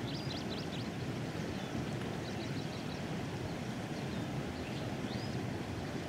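Small birds chirping in short, high notes, with a quick run of them in the first second and a few more later, over a steady low outdoor rumble.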